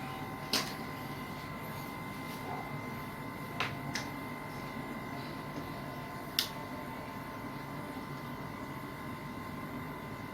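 Four short, sharp clicks, about half a second, three and a half, four and six and a half seconds in, over a steady electrical hum with a faint high-pitched whine.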